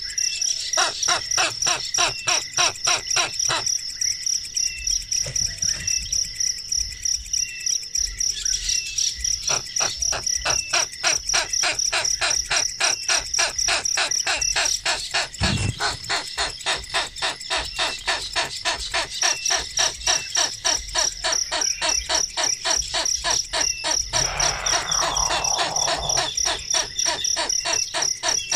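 Birds and insects calling together: a steady high-pitched buzz under rhythmic chirping about four times a second, with small higher chirps. One low thump about halfway through.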